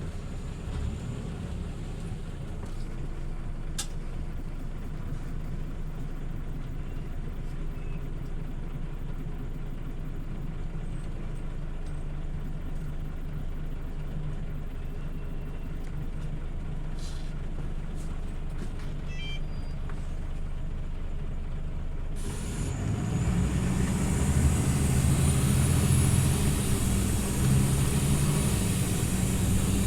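Scania OmniLink city bus engine heard from inside the bus. It runs steadily for most of the stretch, then about two-thirds of the way through it grows clearly louder as the bus accelerates, with a high whine rising in pitch.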